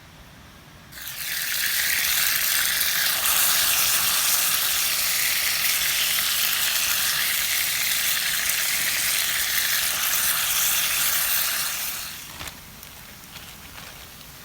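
Food frying loudly in a hot skillet: a sizzle that starts suddenly about a second in, holds steady, then dies down near the end.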